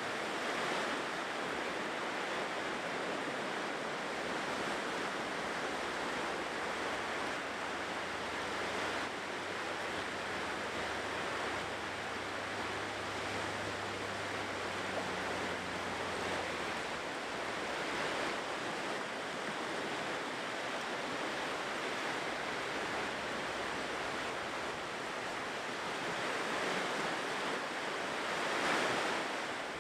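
Ocean surf washing on a shore in a continuous rush, swelling louder near the end as a wave breaks.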